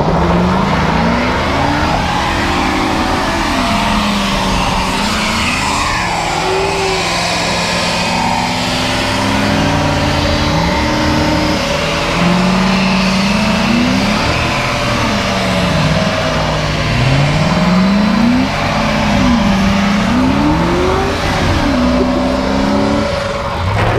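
Two police cars' engines revving hard under load against each other, their pitches repeatedly climbing and dropping and crossing over one another, over the hiss of tires spinning on pavement.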